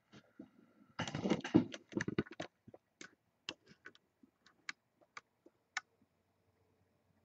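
Computer keyboard and mouse clicks: a quick run of keystrokes, then single clicks spaced about half a second apart that stop near the end.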